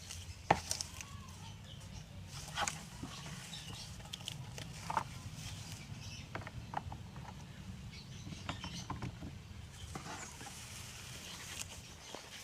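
Pet bird scratching and rustling in wood shavings and bedding, with scattered light clicks and scrapes; a sharp click about half a second in is the loudest. A steady low hum runs underneath.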